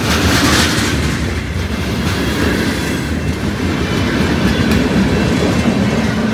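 Freight cars, covered hoppers and tank cars, rolling past close by: a steady, loud rumble of steel wheels on rail, with a couple of sharp clicks from the wheels and couplings.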